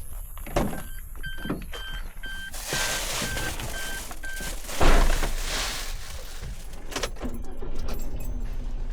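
In and around a car: a warning chime beeping about three times a second for a few seconds, a loud knock like a car door shutting about five seconds in, then a steady low hum.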